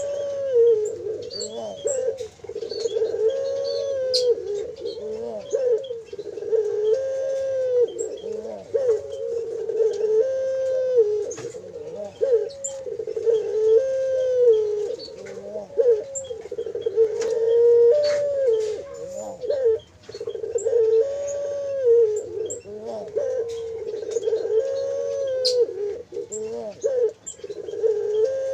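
Puter doves cooing continuously, several birds overlapping in a repeating run of rounded coos about once a second. Higher chirps and short whistles from other small birds sound over them.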